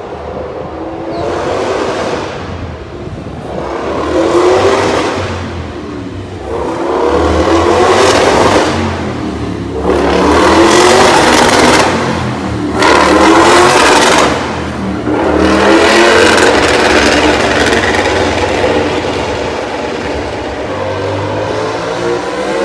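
MotoGP race motorcycles passing one after another at speed, their engines revving and changing pitch as each goes by. About six passes swell and fade, loudest in the middle stretch.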